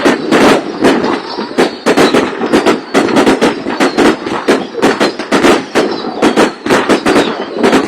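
Fireworks going off: a dense, irregular run of sharp bangs, several a second, without a break.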